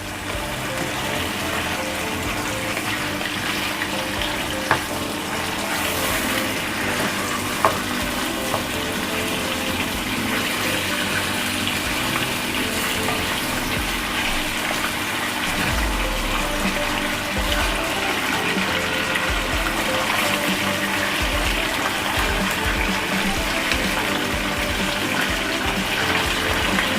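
Steady sizzling of food frying in hot oil in a karahi, with a couple of light utensil clicks, over quiet background music.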